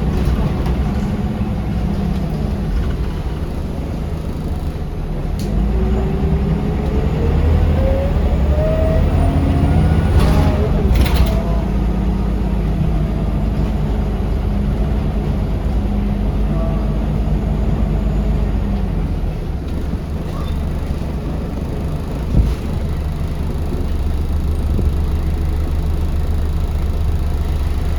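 Scania L94UB city bus heard from on board: the engine runs steadily with a low drone, and a whine climbs in pitch for several seconds as the bus accelerates. A short hiss comes about ten seconds in, and a single knock later on.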